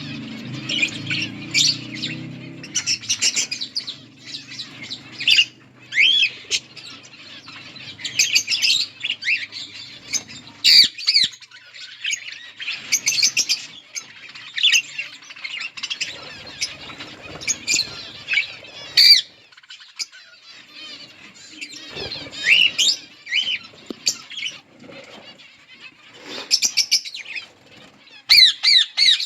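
A flock of budgerigars chirping and chattering in quick, high, warbling calls, with wing flapping now and then.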